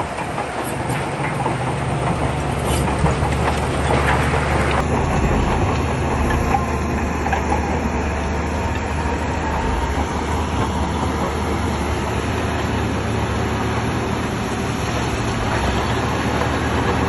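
Shantui crawler bulldozer running steadily, its diesel engine humming low under a dense clatter of steel tracks and stone being pushed.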